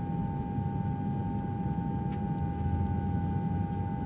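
Steady airliner cabin drone: a constant low rumble with a steady hum above it, as heard inside a passenger plane in flight.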